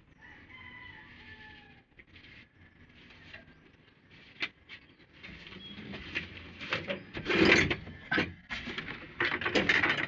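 A rooster crows in the first second or so. Then comes a series of sharp metallic clanks and knocks, growing busier and loudest near the end.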